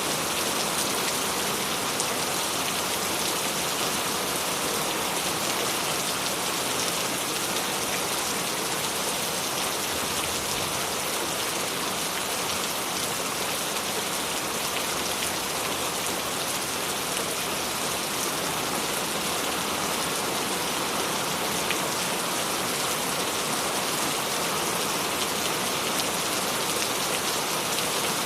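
Steady rain falling on hard surfaces, a dense, even hiss with fine scattered drop ticks.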